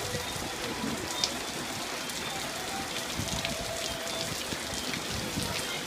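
Heavy rain falling steadily, with many separate drops striking close by; one sharper drop-hit stands out about a second in.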